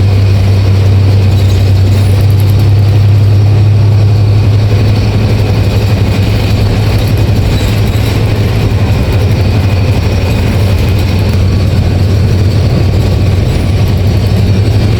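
A bus's diesel engine running steadily, a loud, even low drone.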